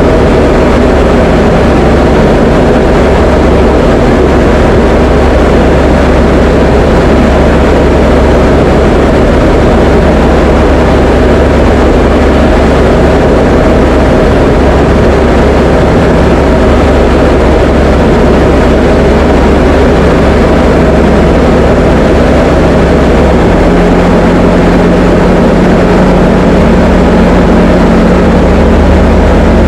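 Diamond DA20 light aircraft's piston engine and propeller running in flight as a loud, steady drone; the engine note shifts about three-quarters of the way through.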